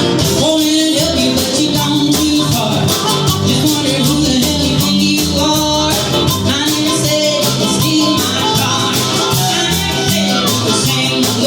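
Live band playing an up-tempo rock song, with a steady drum and cymbal beat over bass and guitar.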